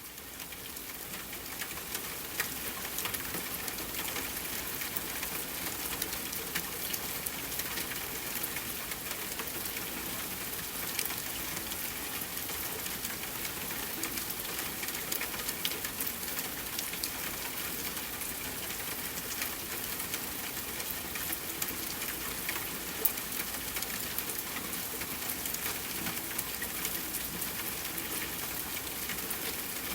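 Steady rain falling, mixed with a wood fire crackling in a fireplace: a constant hiss of rain dotted with many small sharp pops. It fades in over the first couple of seconds, and one louder pop stands out about three-quarters of the way through.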